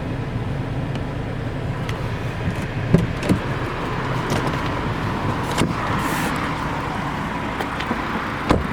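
Steady low vehicle rumble, with a few sharp clicks.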